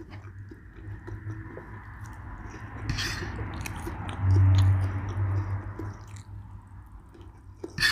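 A person chewing a mouthful of food close to the microphone, with wet mouth clicks. About four seconds in there is a louder low sound lasting about a second.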